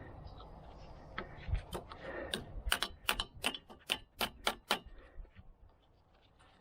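A hand ratchet wrench clicking: a run of about ten sharp clicks at about four a second, starting a little over two seconds in and stopping about two seconds later.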